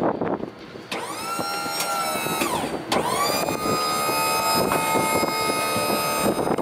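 Thieman power liftgate's electric hydraulic pump motor whining in two runs: about two seconds, a brief stop, then about three seconds more. Each run has a steady pitch that bends as the motor starts and stops.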